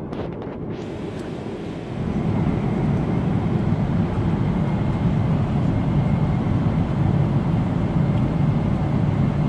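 Jet airliner noise: a steady engine and airflow rumble that grows louder about two seconds in and then holds.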